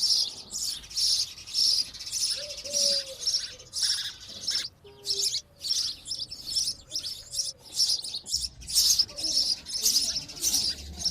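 House sparrow chirping: a steady run of short, high, repeated chirps, about two to three a second.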